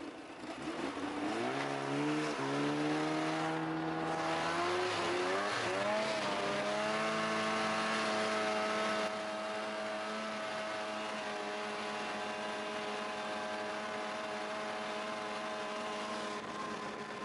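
Snowmobile engine pulling away, its pitch climbing twice over the first six seconds as it gathers speed, then running at a steady pitch at cruising speed.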